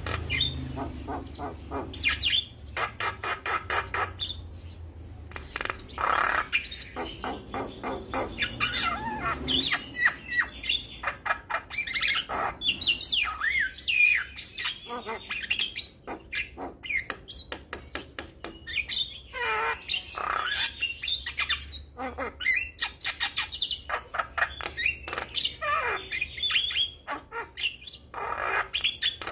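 Javan myna in full song: a long, unbroken, varied run of rapid clicking chatter, harsh squawks and sliding whistles.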